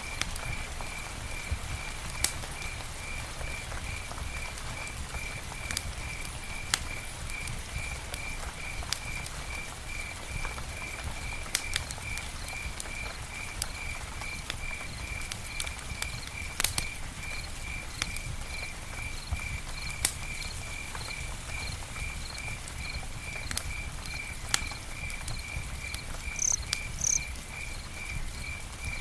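Campfire crackling, with sharp pops scattered irregularly over a low steady rumble of the burning fire. Behind it, a high chirp repeats steadily about twice a second, and two brief higher chirps come near the end.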